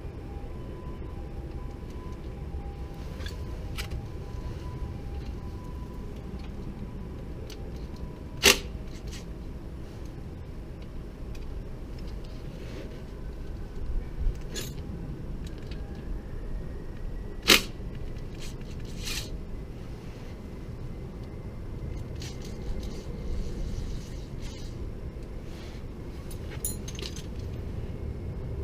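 A few sharp metallic clinks now and then, the loudest two about nine seconds apart, over a steady low rumble.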